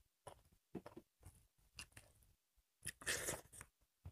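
Faint chewing and eating-mouth sounds of people eating rice and meat by hand: a scatter of short soft smacks and clicks, with one louder, longer noise about three seconds in.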